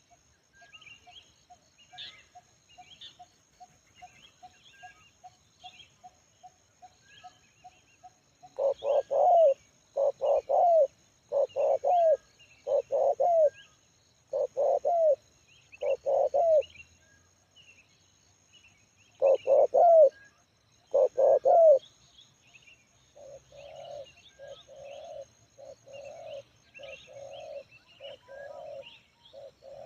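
Spotted dove cooing. A run of faint short notes about two a second leads into loud, deep coos in clusters, followed by a longer run of softer coos near the end. Small birds chirp faintly behind.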